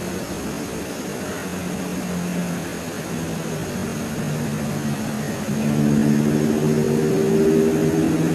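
A low, steady engine-like drone made of several pitches together, growing louder about five and a half seconds in, with a faint steady high whine above it.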